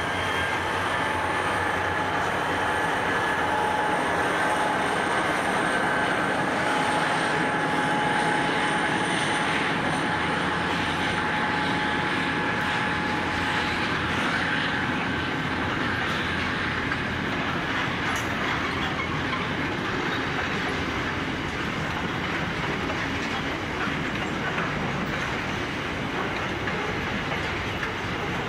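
Container freight train of flat wagons running past, wheels on the rails making a steady noise, with light clicking at the rail joints. A steady high whine sounds over it in the first half and fades out about halfway through.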